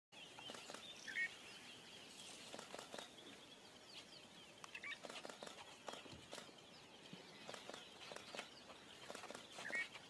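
Wild birds calling faintly: one gives the same short call about every four seconds, over a steady high chatter of other birds.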